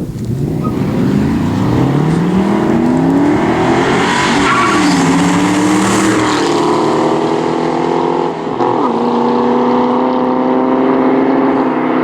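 Mustang V8 exhaust under acceleration: the engine note climbs in pitch, drops at a gear shift about four seconds in, then drops again at a second shift around eight seconds and settles to a steady cruise.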